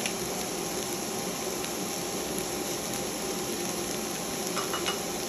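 Onions and diced tomato sizzling steadily in hot oil in a non-stick frying pan, with a few light spatula clicks near the end.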